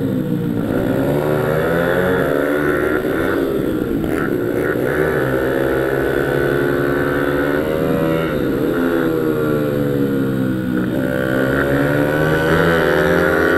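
Single-cylinder pit bike engine revving hard on a track, its pitch dropping and climbing back up about four times as the rider rolls off and gets back on the throttle.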